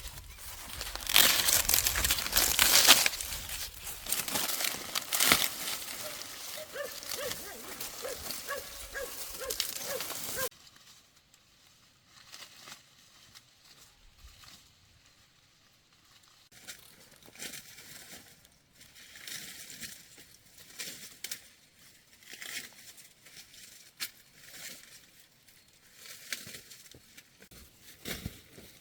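Crinkling, rustling handling noise with many small clicks, with a faint row of short pitched notes in its later part. About ten seconds in it cuts abruptly to much quieter, scattered crackles and clicks.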